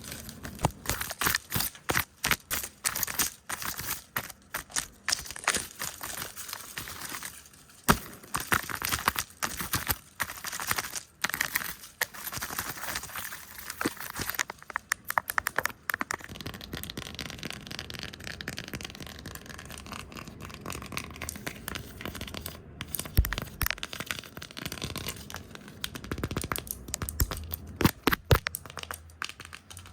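Close-up ASMR lens brushing and tapping with hand sounds: fast, irregular taps and scratchy brushing strokes, busiest in the first half. After that it turns into softer continuous rustling with occasional sharp taps.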